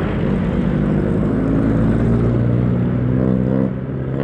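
Yamaha Mio 1 CVT scooter's single-cylinder engine running at a steady cruising speed, with wind and road noise, heard from on board while riding.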